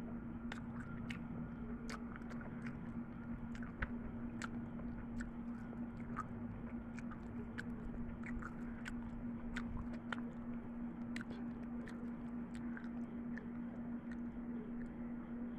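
A person chewing close to the microphone: irregular wet clicks and smacks of the mouth, over a steady low hum.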